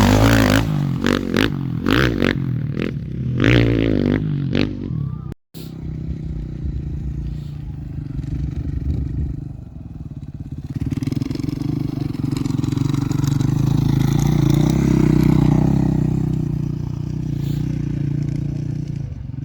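Off-road race engine passing on a dirt course, with gravel and rocks clattering under the wheels for the first few seconds. After a brief break about five seconds in, a steady engine sound builds to its loudest around fifteen seconds in, then fades as the vehicle goes by.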